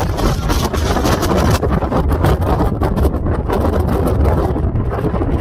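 Strong gusting wind buffeting the microphone: a loud, steady low rumble with an irregular flutter.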